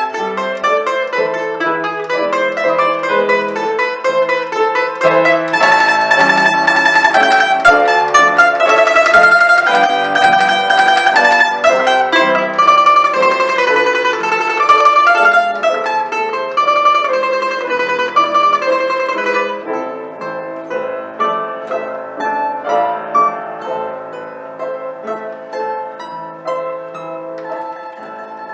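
A plucked string instrument plays a Russian folk song arrangement with quick, closely repeated notes. It is loud through the middle and grows softer toward the end.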